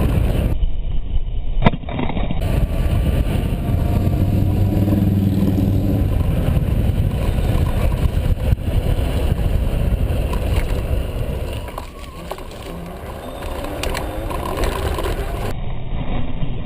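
Road traffic: a steady low noise of vehicles passing, with one vehicle's engine hum standing out about four to six seconds in. It eases off briefly about twelve seconds in.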